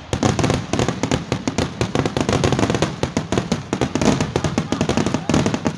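Fireworks going off in a rapid, dense string of bangs and crackles, many each second without a break.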